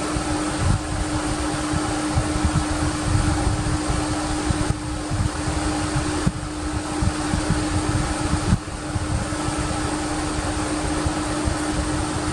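Steady mechanical whirring with a constant low hum, briefly interrupted a few times.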